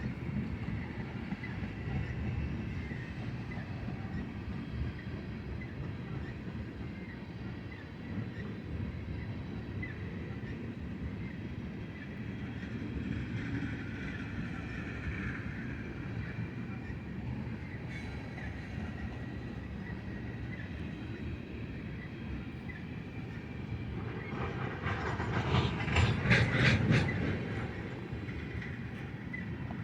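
Freight cars of a long BNSF train rolling past: a steady rumble of wheels on rail with faint rhythmic clicking. Near the end comes a louder stretch of clattering and banging for a few seconds.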